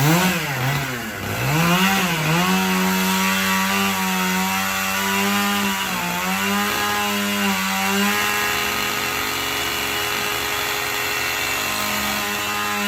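Two-stroke chainsaw revved up and down a few times, then held at full throttle with a steady high pitch that sags briefly twice, as when the chain bites into wood.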